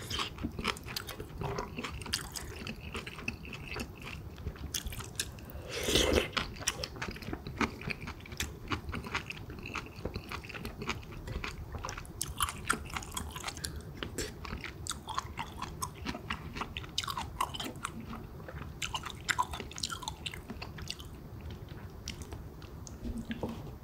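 Close-miked chewing of pork kimchi stew and rice: a steady run of wet, irregular mouth sounds and short clicks, with one louder sound about six seconds in.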